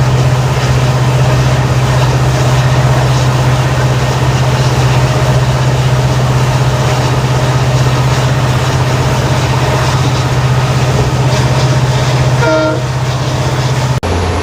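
WDP4D diesel locomotive's EMD 710 two-stroke engine humming steadily. A brief horn toot comes near the end, and just before the end the hum drops abruptly to a lower note.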